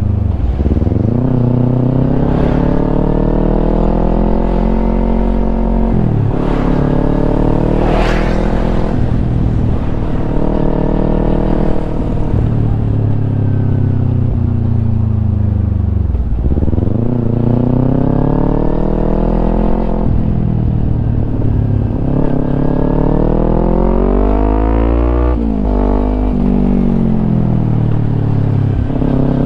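Kawasaki Ninja 250 parallel-twin engine through a Yoshimura aftermarket exhaust, under way. The revs climb and then drop sharply at gear changes, about six and eight seconds in and again near the end. In between, the revs fall slowly for several seconds before climbing again in one long pull.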